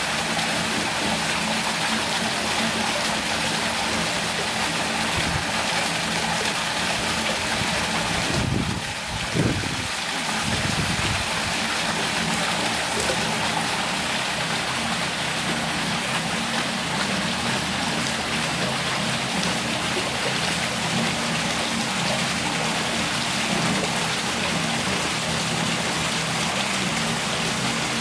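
Steady rush of running water, with a brief low thump about nine seconds in.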